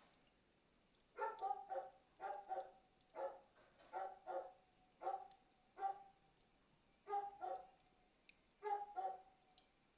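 A dog barking repeatedly, often two barks close together, starting about a second in.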